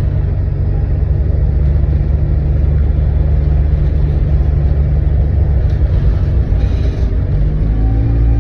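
Volvo B8RLEA bus's diesel engine running steadily with a deep rumble, heard from inside the cabin at the back.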